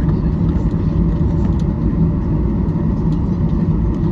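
Cabin noise of a Boeing 737-800 with its CFM56 engines running: a loud, steady low rumble with a constant hum and a few faint ticks of cabin rattle.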